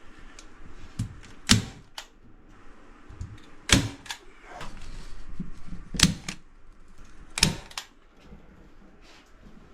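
Hand staple gun firing staples to fix twine across the ceiling joists and hold insulation up: four loud sharp snaps a couple of seconds apart, with a few smaller clicks between.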